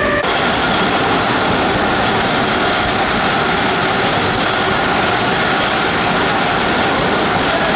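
Mumbai suburban electric local train running: a loud, steady rumble and rattle of the moving train.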